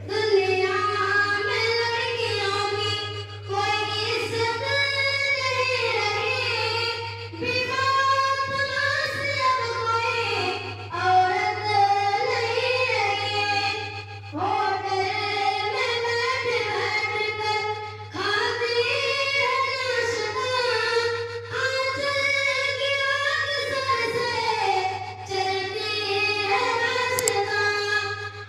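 A child singing solo in a high voice, with long, ornamented melodic phrases of a few seconds each and brief breaks for breath. A steady low hum runs underneath.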